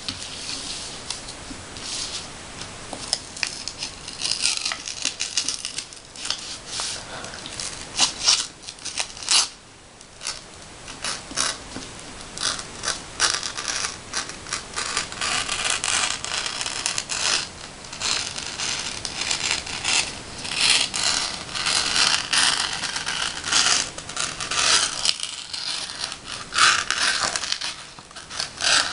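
A letter opener cutting and scraping through paper in many short, irregular strokes.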